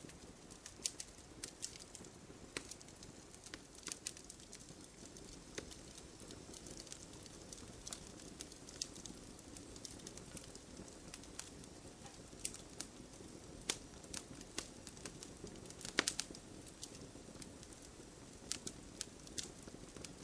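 Wood fire crackling in a fireplace: irregular sharp pops and snaps over a soft, steady rumble of burning. The loudest cluster of pops comes about sixteen seconds in.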